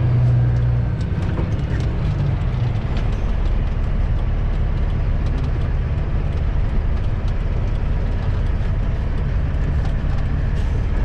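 Semi-truck's diesel engine running at low speed, heard from inside the cab as a steady low drone, with a few light ticks over it.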